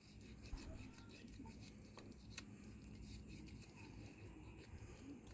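Near silence, with a few faint, short ticks.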